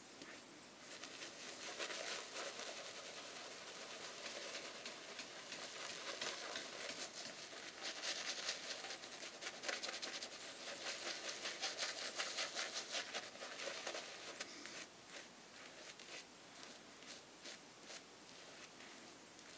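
Badger-hair shaving brush swirling soap lather over stubble, a continuous wet scratchy swishing made of rapid strokes that grows louder for several seconds in the middle. The lather is thin and not very foamy.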